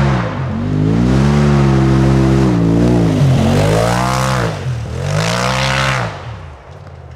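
Polaris RZR Turbo S side-by-side's turbocharged twin-cylinder engine revving hard, its pitch rising and falling several times under throttle, then dropping back to a low, quieter run near the end.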